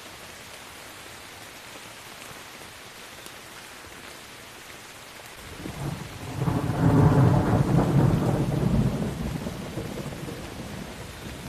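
Steady rain falling, then about halfway through a deep rumble of thunder swells up, peaks, and slowly fades out under the rain.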